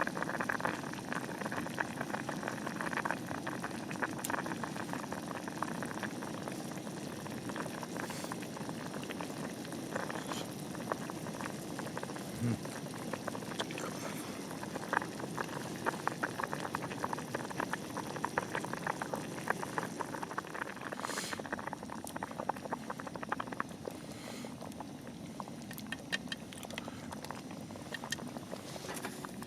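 Liquid boiling in a pot, bubbling steadily; the bubbling thins out in the last several seconds.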